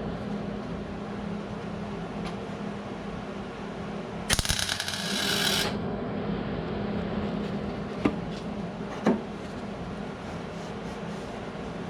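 A welder laying a short burst of weld, about a second and a half of crackling, as a patch panel is tacked and plug-welded into a rust hole in car body sheet metal. A steady low hum runs underneath, and two short sharp clicks come a few seconds after the weld.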